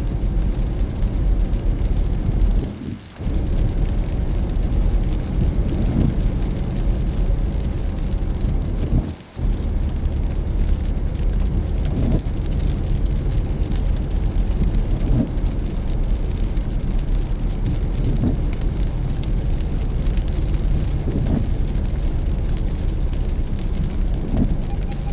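Car driving on a wet road in the rain: a steady low rumble of engine and tyres with rain hiss. The sound drops out sharply for a moment twice, about three seconds in and again about nine seconds in.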